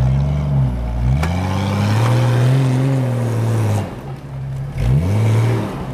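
Off-road 4x4's engine revving in repeated rises and falls: a short rev, then a long climb and drop in revs through the middle, a sudden drop near four seconds in, and a quick blip of throttle about five seconds in.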